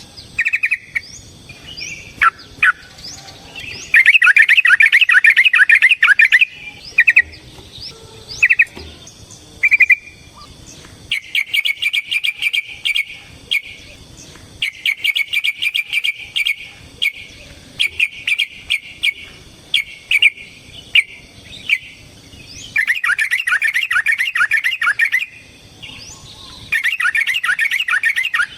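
Yellow-vented bulbul (trucukan) singing: long runs of rapidly repeated bubbling notes, loudest a few seconds in and again near the end, with spaced single chirps in between.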